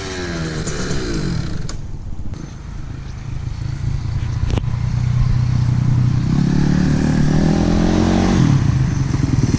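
2016 Kawasaki KX450F dirt bike's single-cylinder four-stroke engine running as the bike is ridden: the revs fall away early on, hold steady, then climb for a few seconds and drop again near the end.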